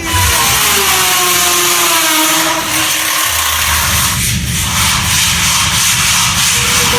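A power tool running with a loud hiss, its motor whine falling in pitch over the first few seconds.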